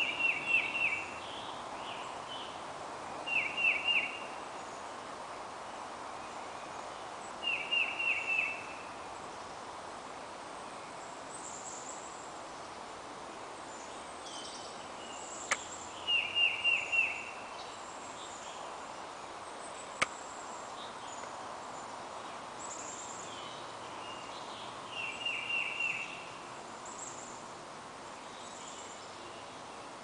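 A songbird sings a short phrase of three or four quick high notes, five times, several seconds apart, while other birds give fainter, higher calls. Two sharp clicks stand out about midway.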